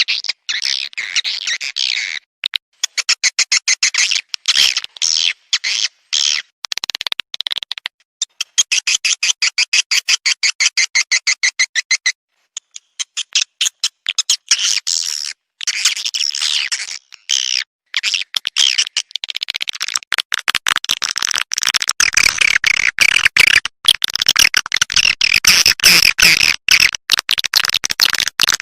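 Swiftlet lure-call recording: rapid chattering chirps and clicking trills of swiftlets, played as repeating bursts with short dead gaps between them. It grows denser and harsher in the last third.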